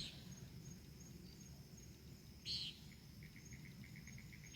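Faint night insect chorus: a cricket-like chirp pulsing evenly at about five a second begins about three seconds in, over a low steady hiss, with a short soft rustle-like hiss about halfway through.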